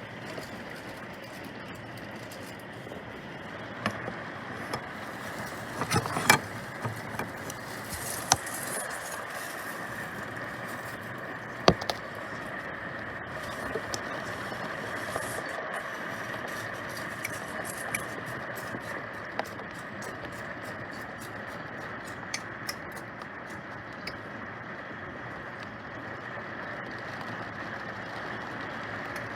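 Steady rain falling, an even hiss dotted with many sharp drips ticking on hard surfaces; a few drops land louder than the rest, the sharpest about twelve seconds in.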